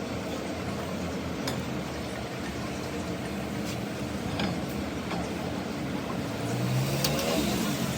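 Steady background noise with a few faint sharp clicks, one about a second and a half in and another near the end.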